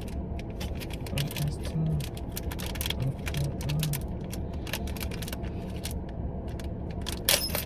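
Small plastic packaging being torn open and handled: irregular crinkling and clicking over a steady low hum, with a sharper, louder rustle about seven seconds in.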